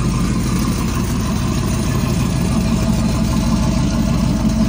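Bored-out Pontiac 455 V8 in a 1979 Pontiac Grand LeMans idling steadily, a low, even exhaust pulse.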